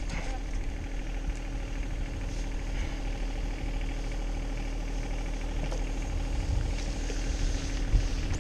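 An engine idling steadily, a constant even hum.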